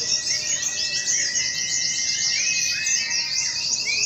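Many pleci (white-eye) songbirds singing at once, a dense overlapping chatter of high, rapid chirps and trills.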